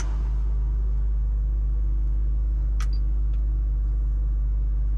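BMW Z3 2.3's straight-six engine idling steadily, heard from inside the cabin as a low, even rumble. The air-conditioning blower's rush cuts off at the start, and a single click from a dash control comes about three seconds in.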